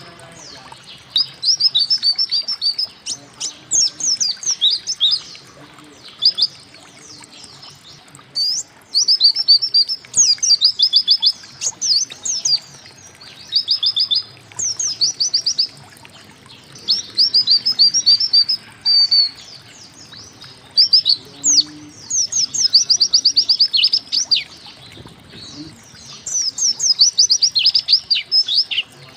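White-eye (pleci) singing: bursts of rapid, high, steeply falling notes, each burst lasting one to two seconds and repeated after short pauses.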